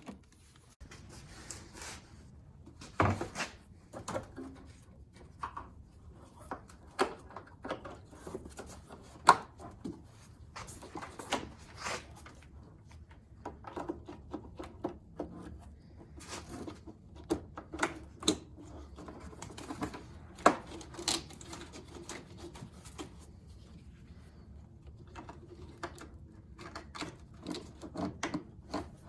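Irregular light clicks, taps and knocks of car body parts and hand tools being handled during reassembly, spaced unevenly with a few sharper knocks standing out.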